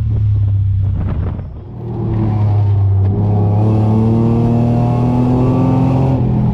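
V6 Ford Mustang engine under throttle on an autocross run. It dips briefly about a second and a half in, then pulls steadily with its pitch slowly climbing, and eases off near the end.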